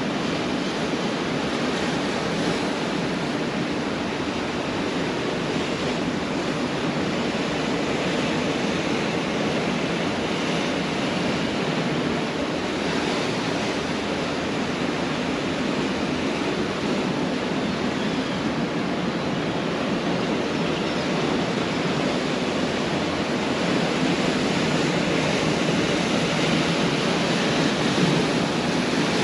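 Pacific Ocean surf: a steady, continuous wash of breaking waves on a beach, swelling a little louder near the end.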